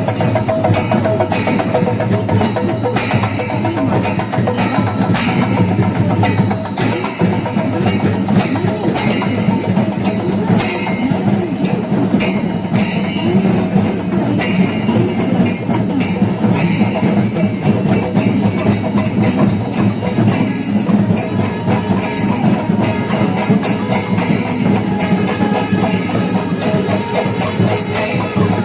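Kerala temple percussion ensemble (melam): chenda drums with small hand cymbals playing a fast, steady rhythm. The cymbal strokes grow quicker and denser in the second half.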